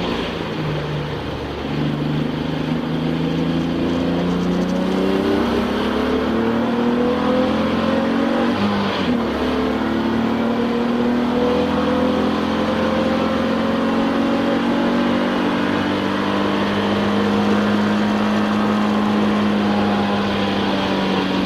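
Touring-class race car's engine heard from inside the cabin at racing speed. The revs shift near the start and dip briefly partway through, then climb slowly and steadily for the last ten seconds or so, as on a long pull in one gear.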